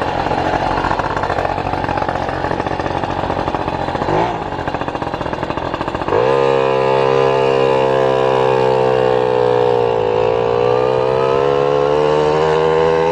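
Motorcycle engine under way with wind noise: it accelerates with a rising pitch from about halfway through, drops in pitch near the end as it shifts gear, then climbs again.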